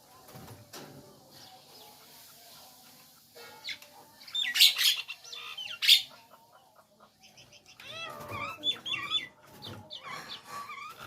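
Nias hill myna calling: two loud, harsh calls around the middle, then a run of quick rising-and-falling whistled notes near the end.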